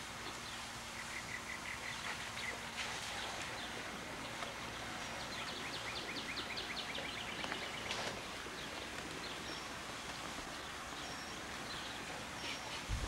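Steady outdoor background hiss with a bird calling in two runs of rapid repeated chirps, about a second in and again around five seconds in.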